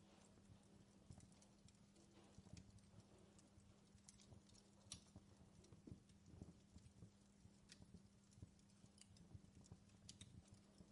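Faint campfire crackling: irregular small pops and snaps of burning wood, with a faint steady hum underneath.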